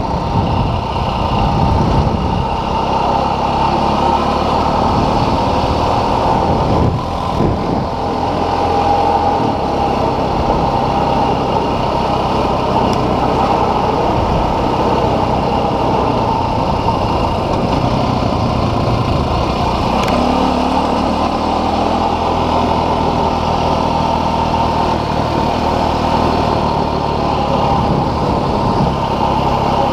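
Dual-sport motorcycle engine running steadily while riding, its pitch shifting a few times with throttle changes, over constant wind and road noise.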